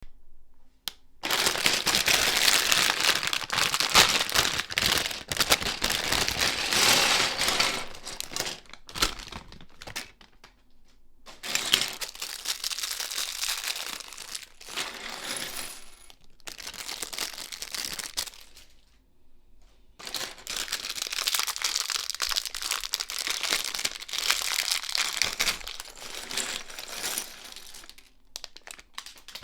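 Plastic LEGO parts bag crinkling as it is handled, in three long stretches of rustling with short pauses between them.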